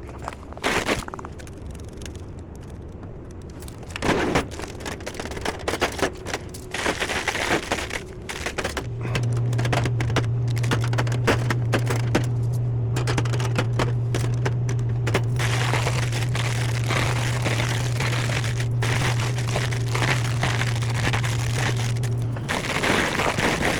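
Rapid crinkling and clicking of snack packages being handled while a snack vending machine is restocked. From about nine seconds in, a loud steady low hum joins it, cutting out briefly near the end.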